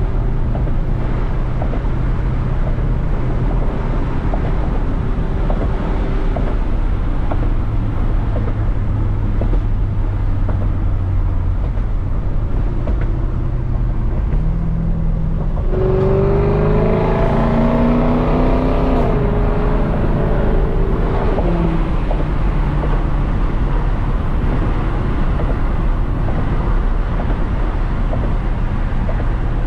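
Straight-piped Lexus SC430 V8 exhaust cruising as a steady low drone, then accelerating about halfway through, its note climbing in steps through upshifts for a few seconds before settling back to a steady cruise.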